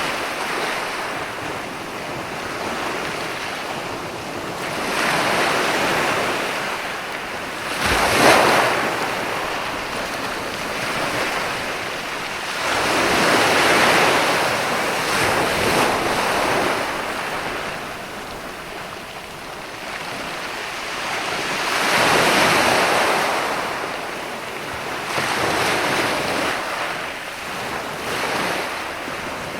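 Ocean waves breaking and washing up a sandy beach, the surf swelling and ebbing every few seconds, with one sharper wave crash about eight seconds in. Some wind noise on the microphone.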